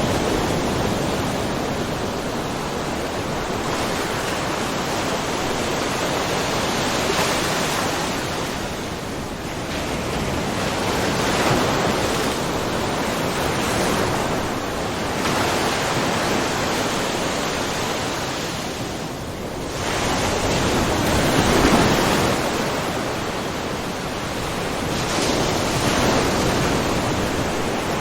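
Small ocean waves washing and splashing in a shallow cove, a continuous hiss of water that swells and eases every few seconds, loudest a little past two thirds of the way through.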